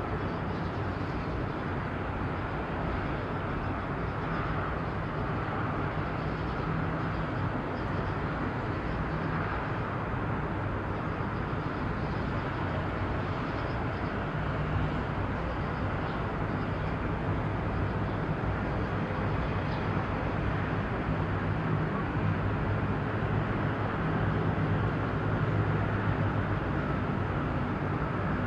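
Steady low engine rumble with a wash of outdoor harbour noise, the low hum swelling a little in the second half.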